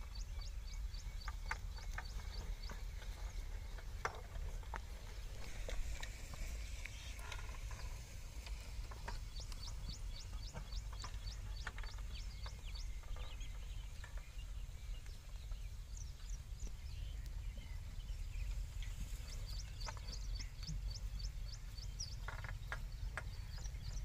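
Birds chirping in quick runs of short high notes, several times over, above a steady low rumble, with a few faint knocks.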